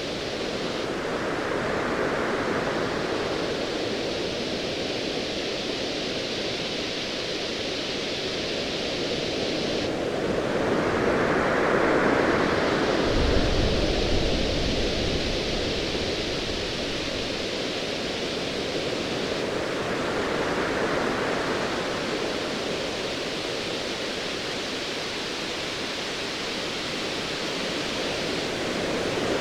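Ocean waves surging and washing in, swelling about every nine to ten seconds, with a low rumble of distant thunder about 13 seconds in.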